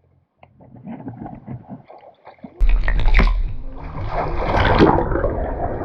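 Lake water splashing and sloshing close to the microphone: faint scattered splashes at first, then loud churning with a heavy low rumble from about two and a half seconds in.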